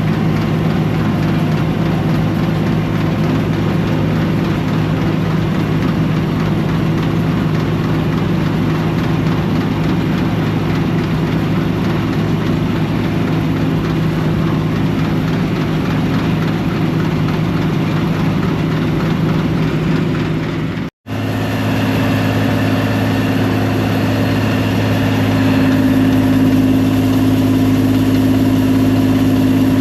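Combine harvester engine and machinery running steadily under harvest. About two-thirds of the way through, the sound cuts out for a moment, then comes back with a higher steady drone.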